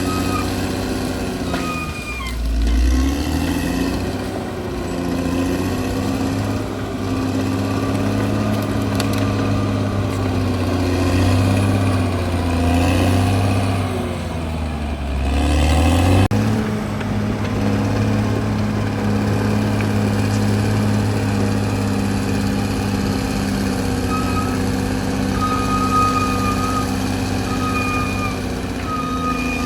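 CAT D6R crawler bulldozer's diesel engine running under working load, its note sagging and recovering a couple of times. Near the end a thin high squeal comes and goes.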